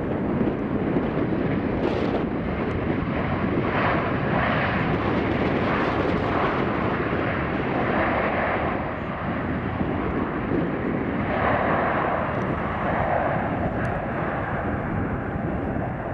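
Jet airliner engines heard steadily and loudly throughout.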